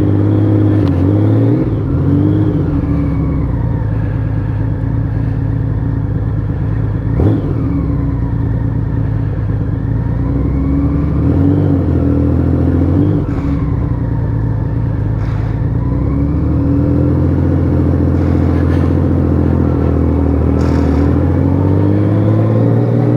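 Honda Valkyrie 1500's flat-six engine, taken from the 1500 Gold Wing and freshly rebuilt after a hydrolock, running under way. The pitch climbs and drops several times with throttle and gear changes, and the engine sounds good. There is a single sharp click about seven seconds in.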